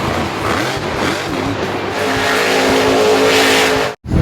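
Loud race-car engine and tyre-skid sound effect, with a steady engine note building in the second half and cutting off abruptly near the end.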